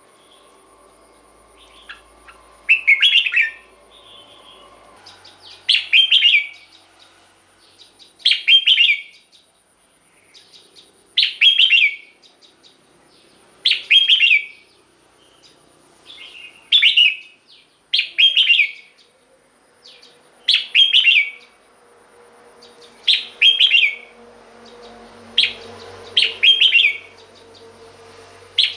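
Red-whiskered bulbul singing short, bright, warbled song phrases, about one every two to three seconds.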